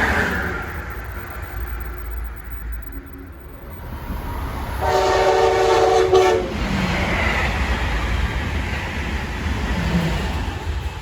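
A passing train's low rumble, with one horn blast about a second and a half long near the middle.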